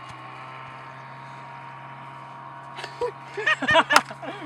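A person's voice calling out briefly near the end, over a steady low hum.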